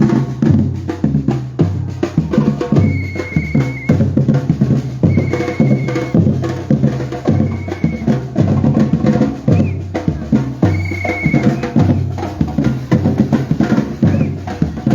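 A batucada percussion ensemble playing a steady, driving samba rhythm on bass drums and snare drums. A short high held tone sounds four times over the beat.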